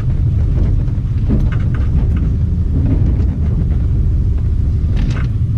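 Steady low rumble of a truck driving, its engine and road noise heard close up.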